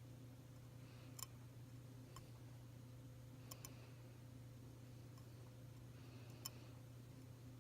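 Near silence over a steady low hum, broken by about five faint, sharp clicks: one about a second in, one near two seconds, a close pair around three and a half seconds, and one near six and a half seconds.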